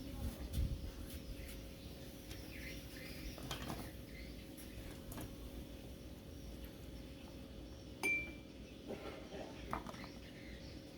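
Kitchenware clinking and tapping, scattered light knocks, with one sharper clink about eight seconds in that rings briefly.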